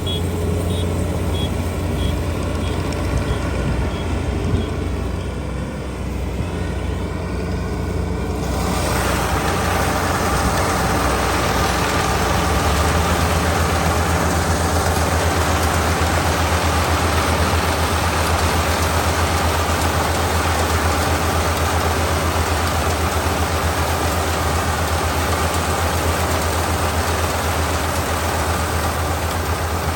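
Kubota ER572 combine harvester's 72-horsepower engine running steadily, with a short row of high beeps in the first few seconds. About eight seconds in, a loud rushing noise of the harvesting machinery joins the engine and keeps on steadily.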